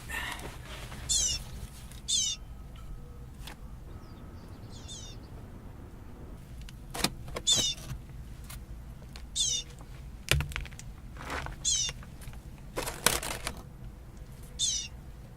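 Baby bird begging with short, high, falling chirps repeated every second or two, the calls of a hungry nestling. A few sharp knocks fall between the calls.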